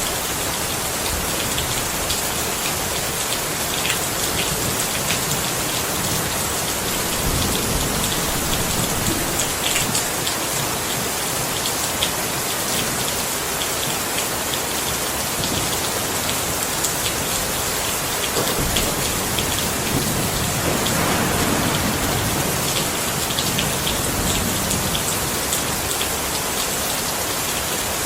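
Steady rain falling: a dense, even hiss with scattered sharper drop ticks.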